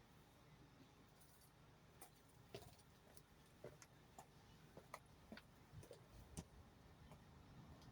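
Near silence with faint, irregular clicks and taps, about a dozen of them, starting about two seconds in.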